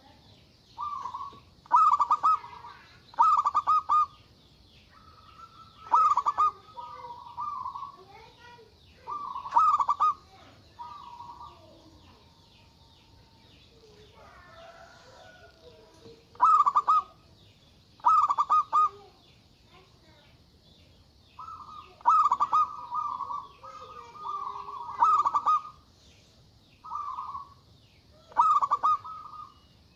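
Zebra dove (local perkutut) cooing loudly: short bursts of rapid, pulsed coos, each about a second long, repeated every second or two, with a quieter stretch near the middle.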